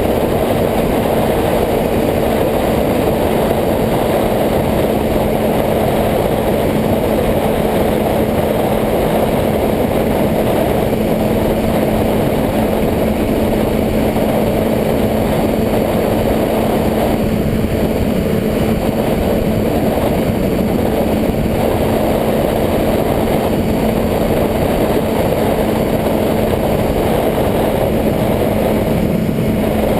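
Motorcycle engine running at a steady speed, a constant drone under a dense rushing noise, with no revving or change in pitch.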